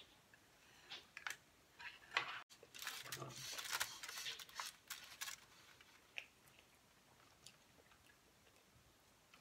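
Sushi rolls being chewed, with a few light clicks of wooden chopsticks. The chewing is loudest about three to five seconds in.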